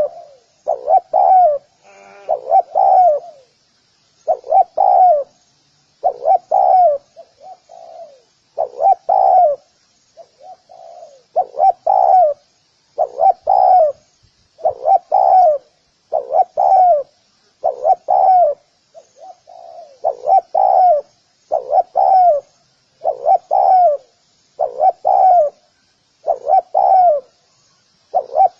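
Spotted dove cooing over and over: a phrase of two or three coos about every one and a half to two seconds, with a few softer coos in between.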